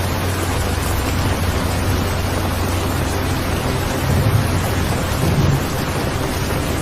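Steady heavy rainfall, an even hiss, with low rumbles of thunder swelling briefly about four seconds in and again about five and a half seconds in.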